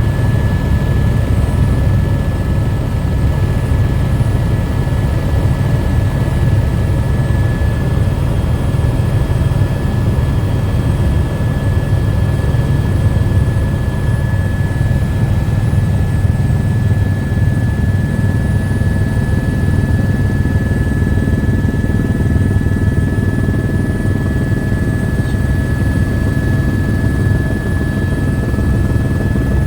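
Helicopter in flight: a steady, loud low engine and rotor drone with a thin steady whine above it.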